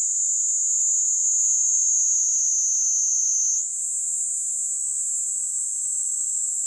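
Kaempfer cicada (Platypleura kaempferi) singing a continuous, high-pitched buzzing trill. The pitch sinks slowly, then jumps higher about halfway through with a brief dip in loudness.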